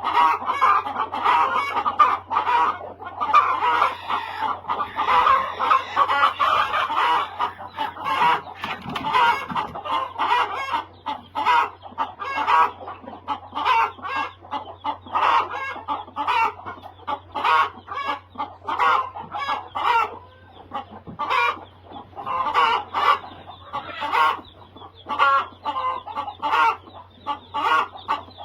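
A flock of chickens clucking continuously, with many overlapping short calls.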